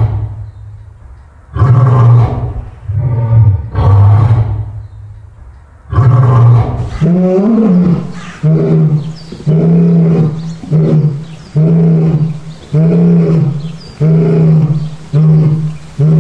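A lion roaring: a few long, loud roars with pauses between them, then from about six seconds a long roar that runs straight into a steady series of shorter roars, a little over one a second, as a roaring bout winds down.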